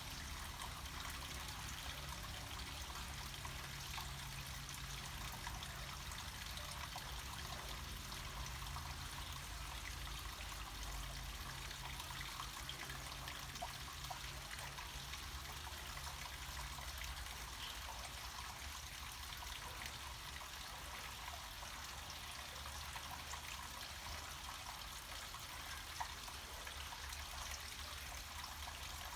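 Water flowing steadily down a small mountain cascade, an even splashing trickle with a low rumble underneath.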